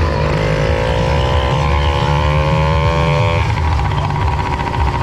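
Small two-stroke engine running under throttle as it is ridden, its pitch creeping up steadily, then changing about three and a half seconds in.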